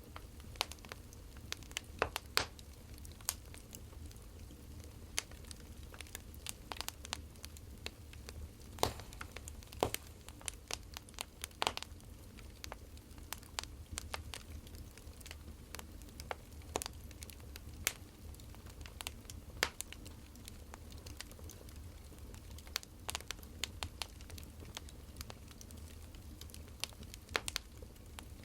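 Burning firewood crackling: irregular sharp snaps and pops, a few louder than the rest, over a low steady rumble.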